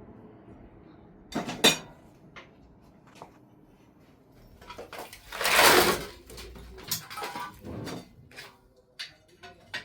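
Scattered knocks and clatter of objects being handled, with one longer, louder noisy rush about halfway through.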